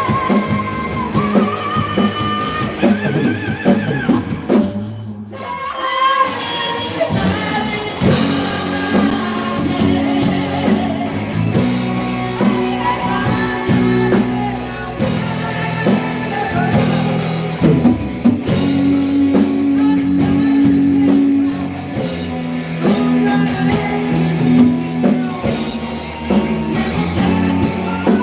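Amateur rock band playing live, a singer's voice over electric guitar and drum kit, with a brief break about five seconds in before the band plays on with held notes.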